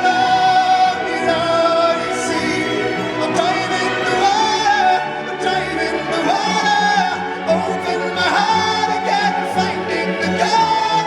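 A solo singer's voice holding and sliding between long notes over a chamber orchestra accompaniment, in a live performance.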